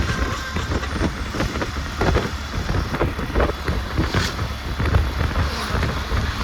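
Road traffic noise: a steady low rumble of running vehicles with irregular clatter and knocks.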